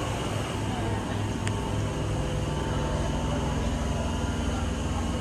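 Steady low mechanical hum of a stationary train, several constant low tones over a noisy rumble, with one sharp click about a second and a half in.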